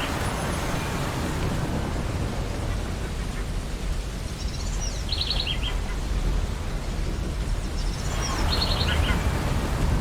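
Ocean surf breaking on a beach as a steady rushing noise. Seagulls call twice in short runs of quick notes, once about halfway through and again near the end.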